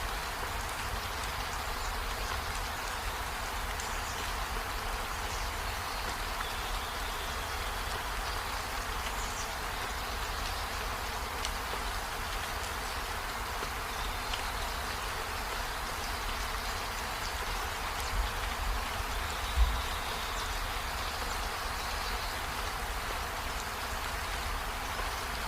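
Steady rainfall, a continuous even hiss, with faint short high chirps now and then and one soft thump about twenty seconds in.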